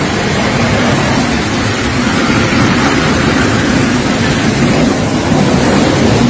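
Loud, steady rushing of strong storm wind, with wind buffeting the microphone.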